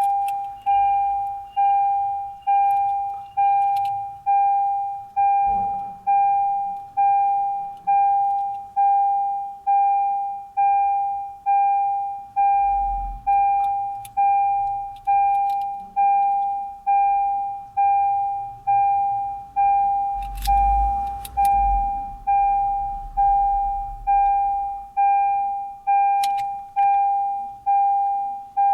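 A car's electronic warning chime sounding a single ringing tone about once a second, each one fading away before the next. A few faint plastic clicks sound about five seconds in and again around twenty seconds in.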